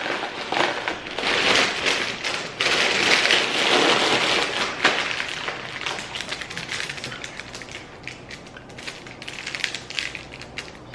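Tortilla chips being tipped and shaken from a crinkly bag into a bowl: a dense rustling and crackling of plastic and chips. It is loudest for the first few seconds, then thins to lighter crackles and taps.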